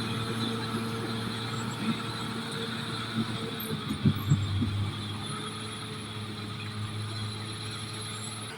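Caterpillar D6R XL bulldozer's diesel engine running steadily, with a few clunks about four seconds in, after which the engine note drops a little lower.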